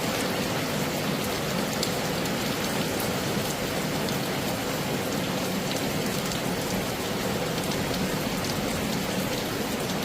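Heavy rain falling steadily: a constant hiss with individual drops ticking through it.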